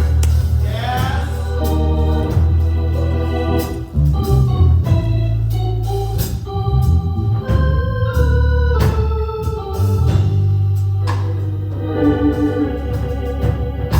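Church organ music: a Hammond-style organ playing held chords over a deep, steady bass, with sharp percussive hits throughout.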